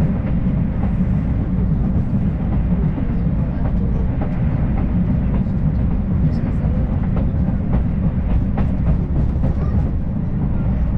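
Running noise inside a passenger car of the Afrosiyob, a Talgo 250 high-speed train, travelling at speed: a steady low rumble with scattered faint clicks.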